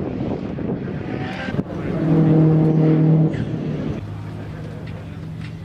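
Car engine running: a loud steady note for just over a second about two seconds in, then dropping to a lower steady drone.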